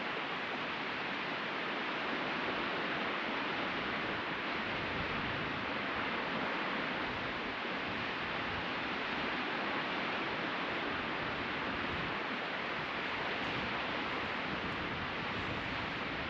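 Sea surf washing onto a beach: a steady, continuous hiss of breaking and receding waves with no distinct single wave crashes.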